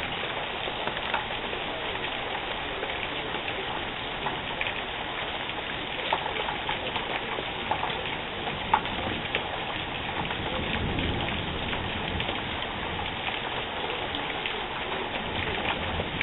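Steady rain falling, with many sharp drop ticks on a nearby surface over a constant hiss; one louder tap about nine seconds in.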